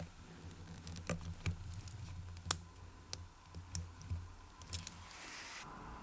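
Small sharp clicks and taps of watchmaker's tools against the watch case and movement as the Seiko kinetic caliber is taken out, the loudest about two and a half seconds in, followed by a brief hiss near the end.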